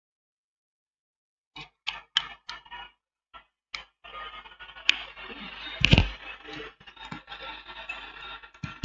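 Small metal repair tools clicking and tapping on the workbench during BGA chip reballing, then a steady hiss from about four seconds in, with a sharper knock around six seconds.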